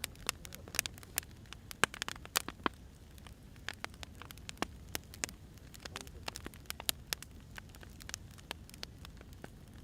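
Wood fire crackling: irregular sharp pops and snaps of burning firewood over a low, steady rumble, with the loudest snaps in the first few seconds.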